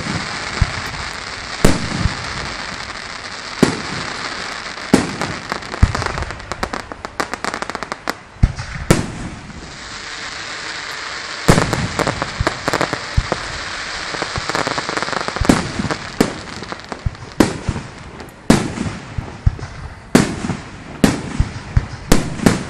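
Fireworks going off: about a dozen loud bangs of bursting shells at irregular intervals, with a continuous crackling hiss between them.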